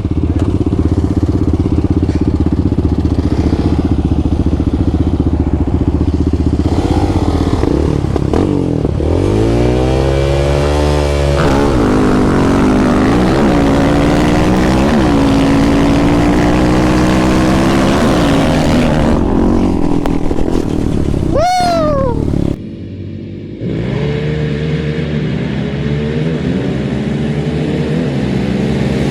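Off-road vehicle engines. One runs steadily close by while another accelerates hard from a launch, its pitch climbing and dropping several times as it shifts up through the gears. Near the end a machine goes by with a sharp fall in pitch.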